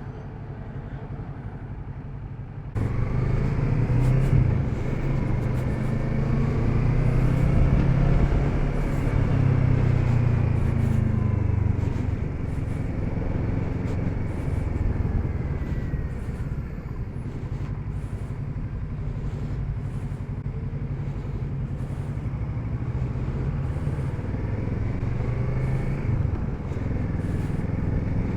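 Kawasaki Z650RS parallel-twin engine running on the road, with wind rush. It gets louder about three seconds in and rises in pitch as the bike accelerates, then settles into a steady cruise.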